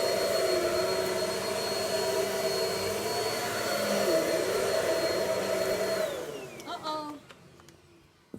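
Vacuum cleaner running with a steady whine, then its motor winding down about six seconds in, the pitch falling as it fades out. A short click near the end.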